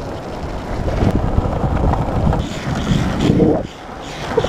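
Longboard wheels rolling on asphalt: a steady low rumble with wind buffeting the microphone. The rumble eases for a moment near the end.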